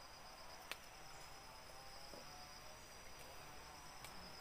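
Faint, steady high-pitched chorus of forest insects at dusk, with a single sharp click about a second in.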